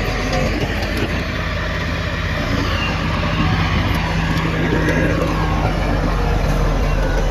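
Heavy diesel earthmoving machinery running steadily: a deep, continuous engine drone with mechanical noise over it.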